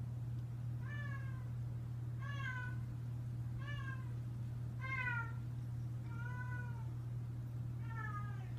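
A cat meowing about six times, short falling calls roughly every second and a half, over a steady low hum.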